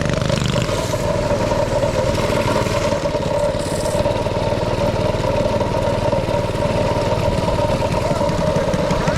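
Small single-cylinder engine running at a steady speed.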